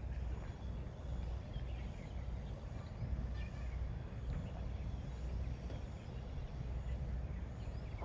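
Outdoor background noise: a steady low rumble with faint, scattered short high sounds.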